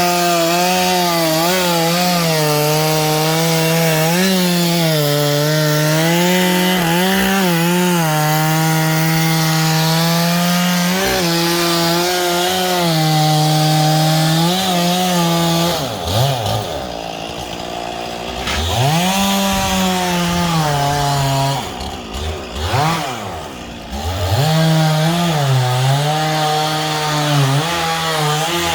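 Stihl chainsaw running at high revs under load, cutting into the palm. About halfway through the engine drops toward idle and is revved up and down a few times, then goes back to full throttle near the end.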